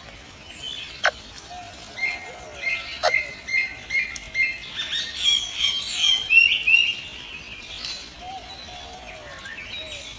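Birds chirping: a run of short, evenly repeated high cheeps, then a busier cluster of chirps in the middle, with two sharp clicks early on.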